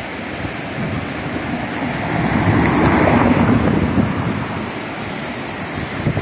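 Sea waves washing in, one swell building and peaking about three seconds in before easing off, with wind buffeting the microphone.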